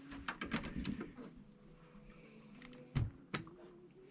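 Fairly quiet, with a few light knocks and taps; the two loudest come about three seconds in.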